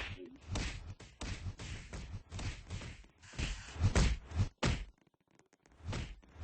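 A run of irregular thumps and knocks, dropping to near silence briefly about five seconds in.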